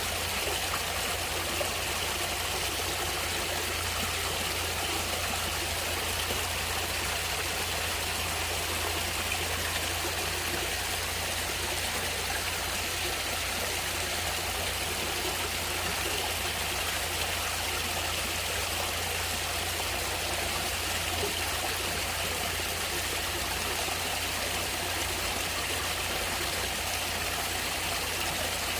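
Natural stream water flowing steadily, an even, continuous rush of water.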